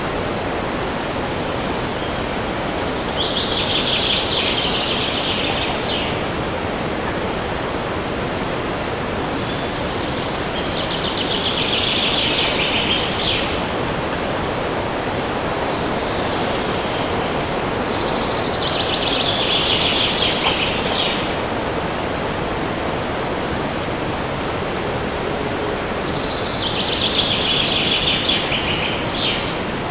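Steady wind rushing through forest trees, with a songbird singing the same short phrase four times, about every eight seconds, each phrase ending in a quick upward flourish.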